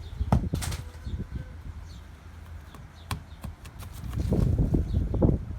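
Football being kicked and bounced on hard ground: a few sharp knocks spread through the first three seconds, then a second or so of dense low rumbling about four seconds in.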